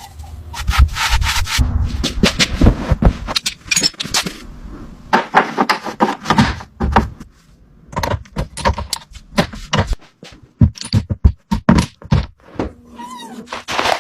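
Irregular knocks, thunks and scraping, rubbing sounds, as of hand work on hard surfaces, with a few short lulls.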